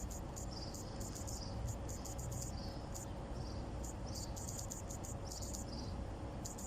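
High-pitched chirping, several short irregular chirps a second, some sweeping downward in pitch, over a steady low rumble.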